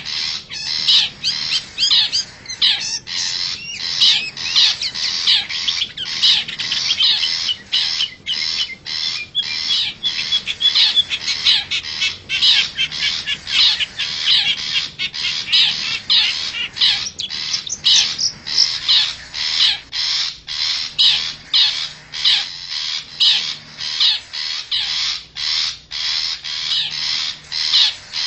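Long-tailed shrike (cendet) giving a rapid, unbroken series of harsh, rasping squawks, about two to three a second. This is a lure call recording for drawing wild shrikes in.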